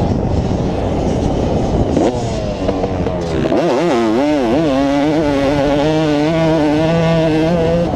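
Two-stroke motocross bike ridden on the track. The engine revs up and down several times in quick succession about halfway through, then holds a steadier pitch that slowly climbs, all over a loud rushing noise.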